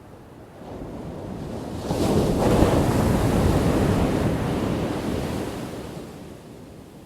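A single ocean wave crashing on the shore: the surf swells about a second in, breaks with a loud crash near two seconds, then washes out and fades over the next few seconds.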